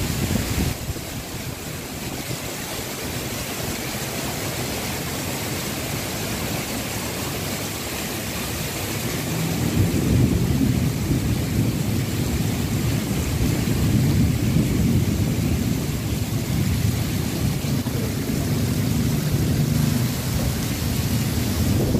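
Heavy rain pouring down in a storm, with strong wind gusting against the microphone as a low rumbling buffet that grows stronger about halfway through.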